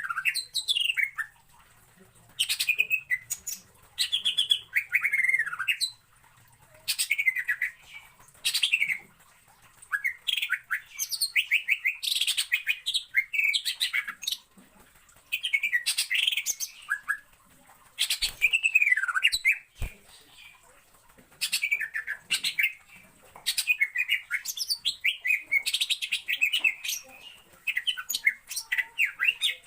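Cucak ijo (green leafbird) singing: fast, varied chirping phrases of one to a few seconds each, broken by short pauses.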